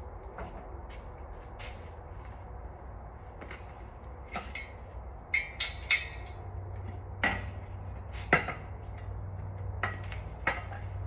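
Scattered metallic clinks and knocks of hand tools and engine parts being handled during an engine teardown, with a few sharper clanks in the middle. A low steady hum comes in about halfway through.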